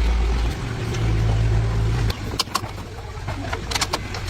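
An engine running steadily at a low hum, stepping up slightly about half a second in and then cutting off about two seconds in, followed by a few sharp clicks.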